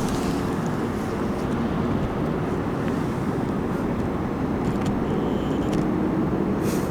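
Steady engine noise from a motor vehicle: a continuous low rumble with a faint hum over it.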